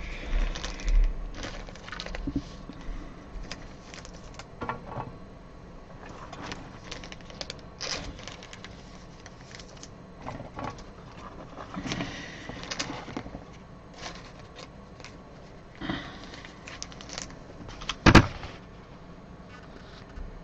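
Trading cards and their plastic holders being handled: scattered light rustles and small clicks, with one sharp knock about 18 seconds in.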